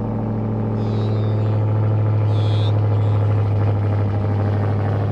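Ram TRX's supercharged 6.2-litre V8, straight-piped with the mufflers deleted, idling just after a cold start: a loud, deep, steady drone that swells a little in the first couple of seconds, then settles.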